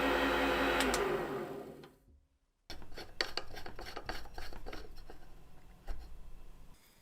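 A small electric power tool runs and then spins down with falling pitch, followed after a short gap by irregular hand scraping or rubbing on a hard part, with many small clicks.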